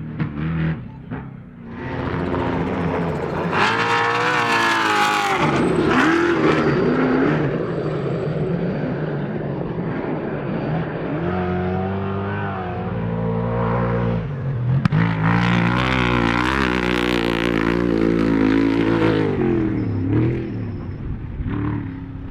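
Trophy truck engines revving hard as the trucks race past, pitch climbing and dropping with the throttle and gears; loudest about four seconds in and again from about fifteen to nineteen seconds in, with a single sharp crack near fifteen seconds.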